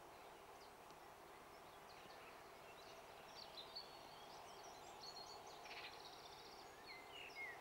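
Near silence: faint outdoor ambience with distant birds giving short chirps, more often in the second half.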